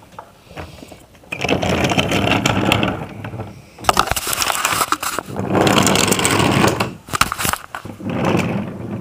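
A small motorised toy train running along its track, making a rattling, rolling noise in four stretches of about a second each with short dips between them.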